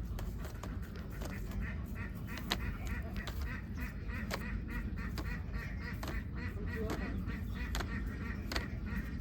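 A large flock of domestic ducks quacking continuously, with many calls overlapping, over a steady low rumble. Sharp clicks come now and then.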